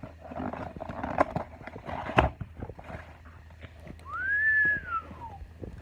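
Packaging and parts being handled, with rustling, light clicks and one sharp knock about two seconds in. Then a single whistled note, over a second long, that rises and then falls away.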